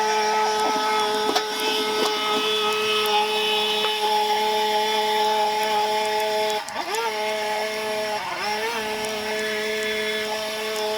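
Small engine of a handheld lawn power tool running steadily at high throttle. The throttle is let off briefly twice, a little past halfway, and the engine revs back up each time.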